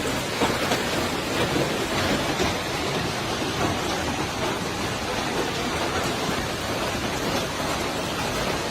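Heavy storm rain falling hard with wind, a dense steady hiss flecked with scattered sharp hits.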